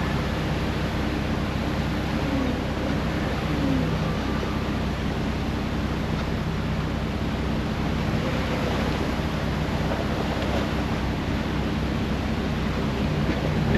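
Jeep driving along steadily: an even engine hum under rushing wind and road noise.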